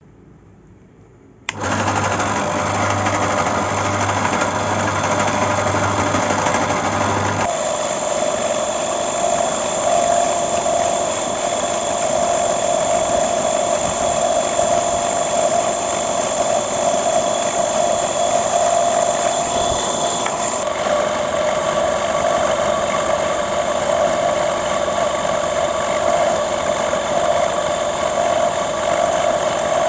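Small electric motor, the water-pump motor that drives a home-made briquette extruder, running with a steady whirring drone. It starts suddenly about a second and a half in, and its tone shifts abruptly twice, first taking on a steady hum about seven seconds in.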